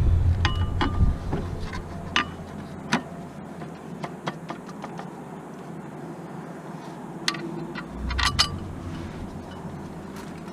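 A low rumble dies away in the first second, followed by scattered sharp metallic clicks and knocks, a few with a short ringing note, typical of tools or metal parts being handled. A cluster of clinks and a dull thud come near the end.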